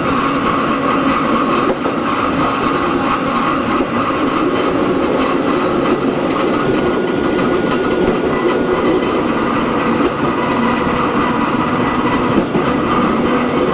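Onboard running sound of Hakone Tozan Railway Moha 1 No. 106, an electric railcar with nose-suspended SE121-A traction motors on Nippon Sharyo NA7 bogies. A steady mix of motor and gear hum and wheels running on the rails, with rail-joint clatter.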